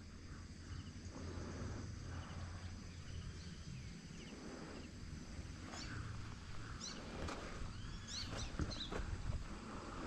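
Quiet outdoor ambience: a low steady rumble of wind on the microphone, with short, quick high-pitched bird chirps coming in about halfway through and repeating several times.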